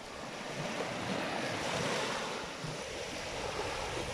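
Sea waves washing on the shore in a steady rush that swells about two seconds in, with wind buffeting the microphone.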